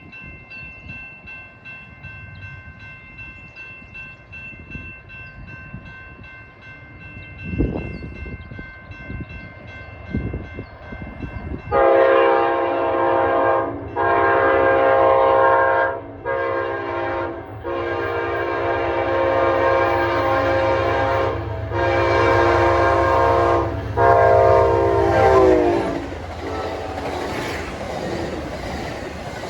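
A grade-crossing bell ringing, then an Amtrak passenger locomotive's horn sounding a sequence of long and short blasts as the train approaches. The horn's pitch drops as the locomotive passes, and the train then runs by with a steady rumble.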